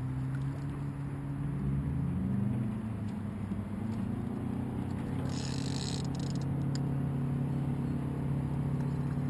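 Boat motor running steadily, its pitch rising about a second in and then holding at the higher speed. A brief hiss about five seconds in.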